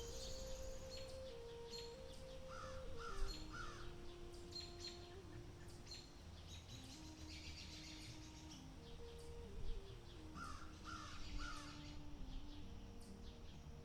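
A bird calling in two series of three short, harsh calls, one about two and a half seconds in and one about ten and a half seconds in. Under it run slow, held tones that change pitch now and then, like a soft background melody, and scattered high chirping.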